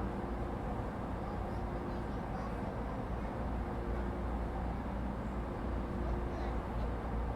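Cabin of an Echigo TOKImeki Railway ET127 series electric train standing at a station: the steady hum and rush of its onboard equipment, with a faint steady tone.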